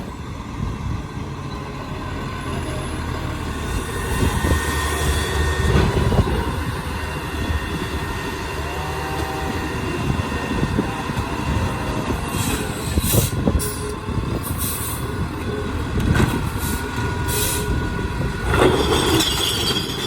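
Peterbilt 520 garbage truck with a Labrie Helping Hand automated side-loader working, its engine running steadily under thin whining tones and short hisses of air; a louder noisy burst comes near the end.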